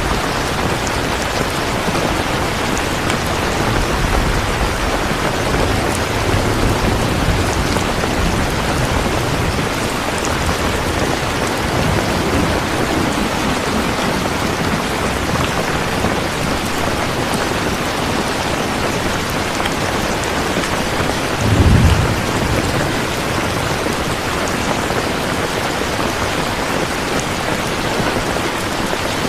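Steady rain falling. A brief low rumble comes about two-thirds of the way through and is the loudest moment.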